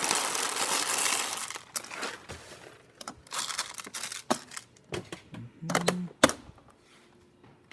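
Coffee being poured into a DeLonghi Magnifica S espresso machine: a rustling, crinkling stretch for the first second and a half, then scattered clicks and knocks, with a brief low hum about three-quarters of the way through.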